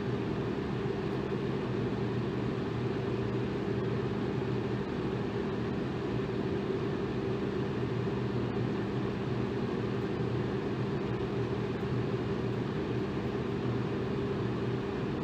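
Electric fan running steadily: an even whooshing rush of air with a constant low motor hum.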